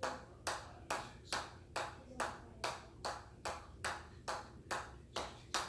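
A ball bounced again and again on a hammer, an even run of sharp taps about two and a half times a second.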